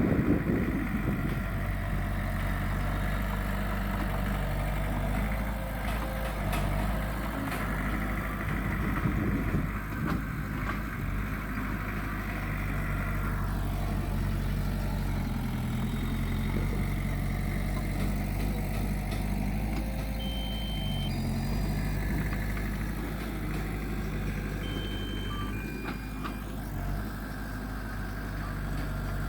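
Heavy diesel engine of earthmoving machinery running steadily, its pitch dipping briefly a couple of times.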